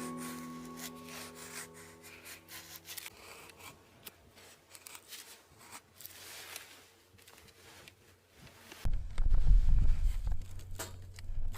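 Background music fades out over the first few seconds, leaving soft scraping and rubbing sounds. About nine seconds in, a loud, gusty rumble of strong wind on the microphone starts suddenly.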